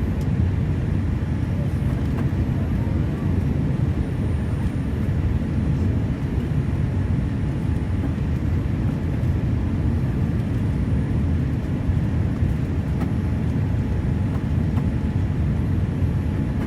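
Steady low rumble of an airliner heard from inside the passenger cabin, the even noise of engines and airflow with no sudden changes.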